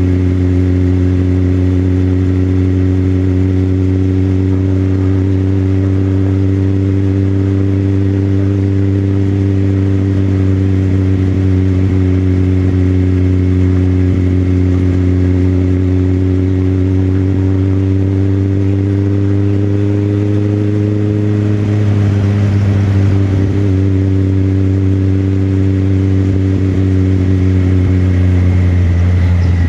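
Motorcycle engine running at a steady cruising speed, heard from the rider's seat. Its pitch holds almost level, rises a little about two-thirds of the way through, wavers briefly, and changes again near the end.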